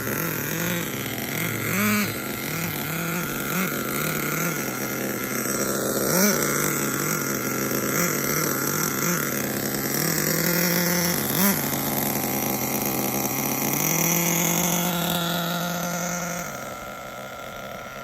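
Hong Nor Force 32 (5.2cc) two-stroke nitro engine idling during its break-in, with a few short throttle blips that rise briefly in pitch. It settles to a quieter idle near the end.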